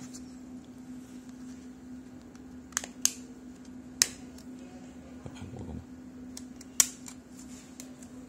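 Several sharp clicks and taps, four of them spread out over the stretch, from handling a mobile phone and small tools on a work surface, over a steady low hum.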